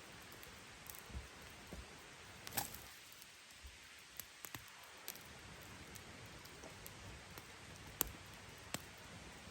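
A faint steady hiss with scattered sharp clicks and pops at irregular times, the loudest about two and a half seconds in and about eight seconds in.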